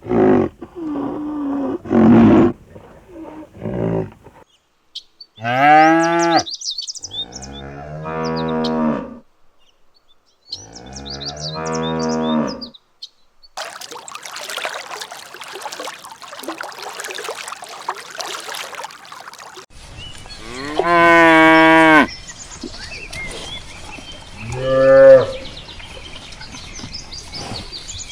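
Cattle mooing: a series of long, drawn-out moos with pauses between them, and a stretch of steady outdoor background noise midway with no calls. A few short calls come in the first few seconds.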